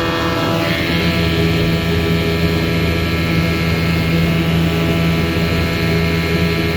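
1983 Johnson 7.5 hp two-stroke outboard motor running steadily at high throttle under way on a speed run, with slight shifts in pitch.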